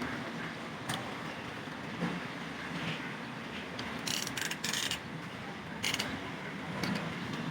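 Hand tools working on metal engine parts: scattered sharp metal clicks and clinks, several close together about four to five seconds in and another near six seconds, over a steady workshop background.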